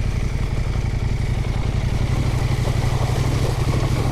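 Husqvarna Norden 901's parallel-twin engine running at low, steady revs, with no revving up or down.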